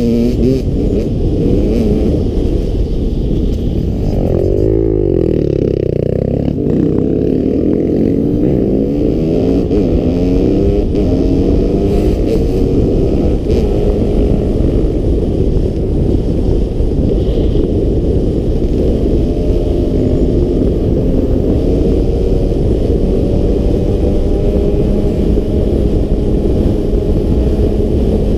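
Enduro motorcycle engine running under way, the revs dipping and climbing again about five seconds in, then holding fairly steady as the bike rides on.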